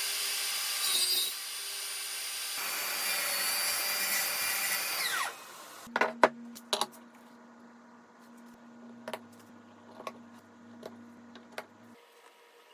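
A woodworking power tool runs on wood, then is switched off about five seconds in, its pitch falling as the motor winds down. Several light knocks of wood being handled follow over a faint hum.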